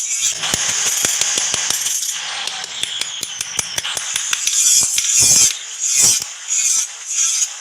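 Hand tool working metal: a steady high rasping scrape broken by many small clicks, with a couple of louder knocks about five and six seconds in.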